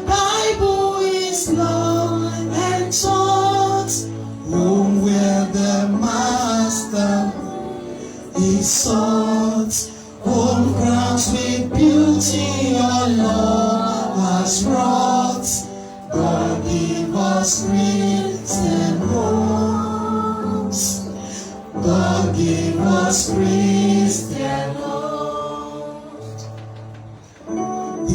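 Church congregation singing a gospel hymn together, men and women, over instrumental accompaniment, line by line with short breaths between phrases.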